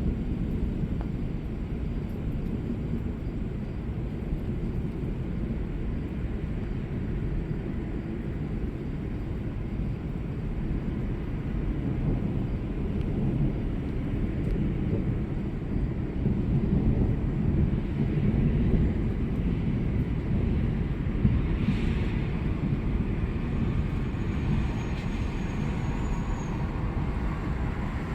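Thunder rumbling low and continuously, swelling about two-thirds of the way through, with a brief sharper crack about three-quarters of the way in.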